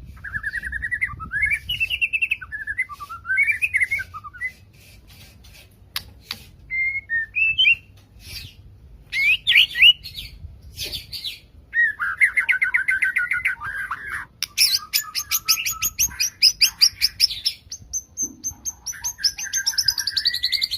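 White-rumped shama (murai batu) singing loudly in gacor form, with mimicked cililin, canary and lovebird material. It opens with varied whistled phrases broken by short pauses. From about twelve seconds in it turns to fast trills and rapid rattling runs of high notes.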